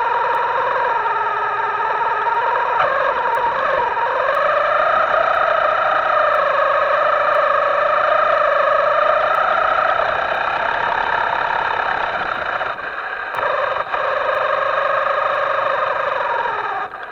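Electric motor of a Himoto radio-controlled model whining loudly and with distortion. The pitch dips and climbs again with the throttle about three to four seconds in, and the motor briefly cuts out twice near the end.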